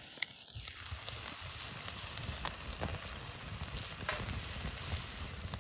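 Wood campfire crackling, with scattered sharp pops and snaps over a soft hiss. A brief faint tone sounds in the first second.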